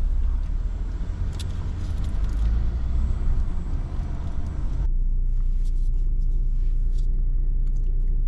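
A car's low, steady rumble heard from inside the cabin while it sits or rolls slowly. About five seconds in, the higher noise above the rumble drops away abruptly and only the low rumble remains.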